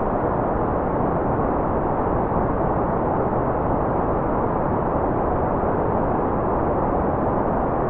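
Continuous white noise track: a steady, unchanging rushing noise with no pitch or rhythm, full in the lows and mids and without bright hiss at the top.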